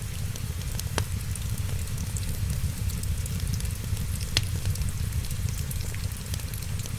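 Wood fire crackling in a fireplace, with scattered small ticks and two sharp pops, one about a second in and the other past four seconds, over a steady low rumble.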